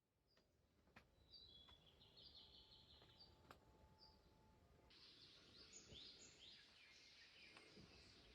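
Faint birdsong: small birds chirping and trilling high, growing busier about five seconds in.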